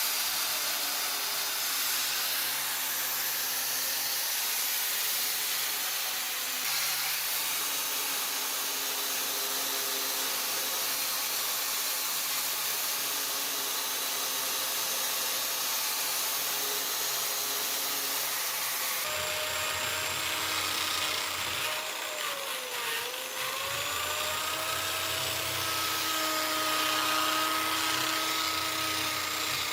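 A steady hissing noise, then from about two-thirds of the way in the whine of a small electric power tool such as a drill. The whine drops in pitch under load around 23 seconds in and then picks back up.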